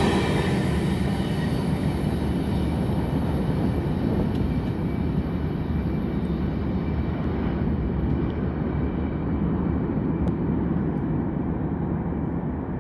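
Freight train cars rolling past on the rails and then receding. The rumble loses its high end over the first few seconds and fades slowly as the train pulls away.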